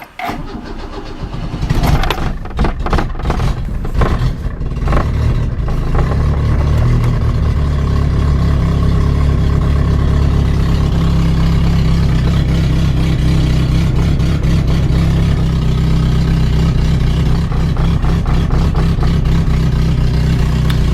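Opel Corsa A's 1.2-litre carburetted engine running on choke in a cold start. It is rough and uneven for the first five seconds or so, then settles into a steady, loud run. Its exhaust is in need of fixing or replacing.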